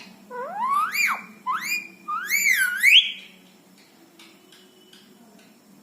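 Indian ringneck parrot giving three whistled calls, each sweeping upward in pitch, the last one dipping and rising again; the calls stop about three seconds in, leaving only faint clicks.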